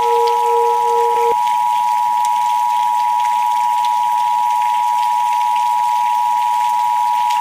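A steady pure sine tone of a meditation frequency track over soft rain hiss with scattered raindrop ticks. A second, lower tone cuts off suddenly about a second in.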